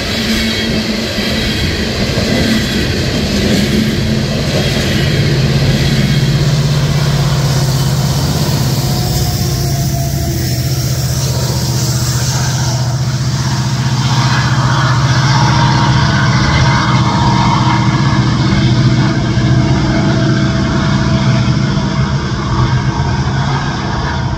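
Coal train rolling past: the hopper cars' wheels run steadily over the rails. From about five seconds in, the low drone of the EMD SD70ACE diesel locomotive shoving on the rear joins in, passing close and then carrying on as it moves away.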